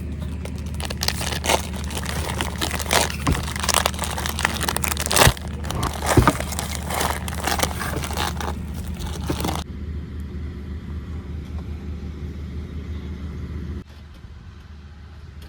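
A vehicle running on a rough, bumpy road, with a steady low drone. For most of the first ten seconds it is crossed by crunching and rattling knocks, then it settles to a smoother drone.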